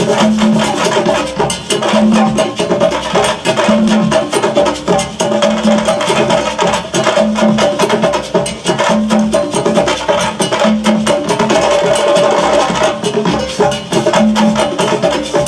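Percussion-led music: fast, dense strikes like wood blocks and drums, over a low drum note that comes back about every two seconds.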